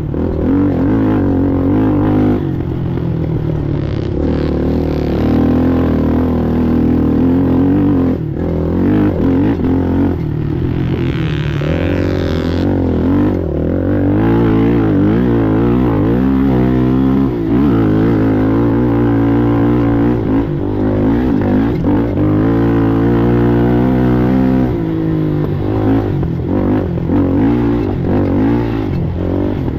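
Racing ATV engine running hard over rough ground, its pitch rising and falling as the throttle is worked, with a brief let-off about eight seconds in. A burst of hiss and clatter comes a few seconds later.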